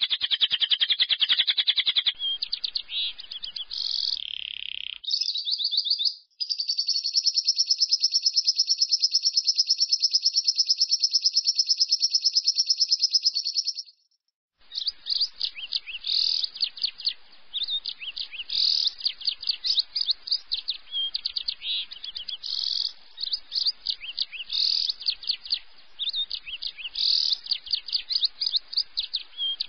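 Lovebird singing its 'ngekek' song: very fast, high chirps strung into a trill, one unbroken stretch lasting about seven seconds. After a brief silence, faster chattering follows, broken by louder squeaks.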